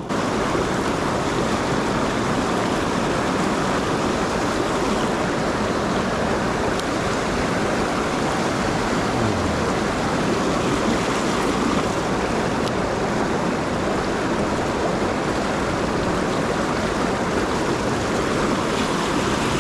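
Rushing mountain-stream water: a steady, loud wash of flowing water over rocks.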